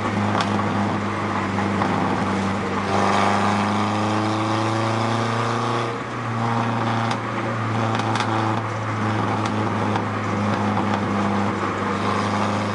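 1994 Ford Ranger's engine through a new exhaust run straight to the back with a Cherry Bomb muffler, heard from inside the cab with the rear window open. It pulls with a rising pitch for a few seconds, lets off about six seconds in, then runs on steadily, with a few sharp exhaust crackles.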